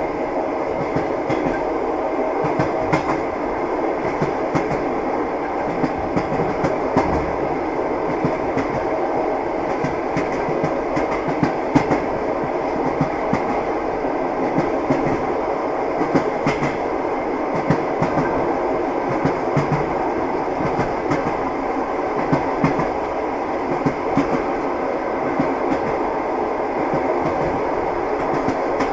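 Train wheels knocking over rail joints, the clickety-clack of a moving train over a steady rumbling run noise, with scattered irregular knocks.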